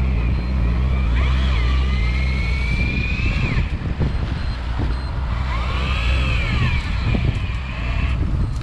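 Fishing boat's engine running steadily. Twice, a high wavering whine rises and falls over it.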